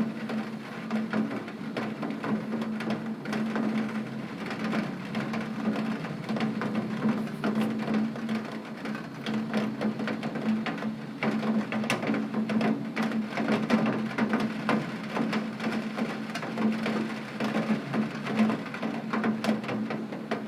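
Heavy rain striking a window pane: a dense, steady patter of many small drop impacts, with a steady low hum underneath.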